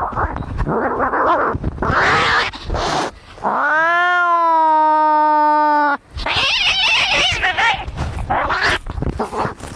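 Cats fighting: harsh hissing and spitting, broken about three and a half seconds in by one long, drawn-out yowl that cuts off suddenly after about two and a half seconds, followed by more hissing.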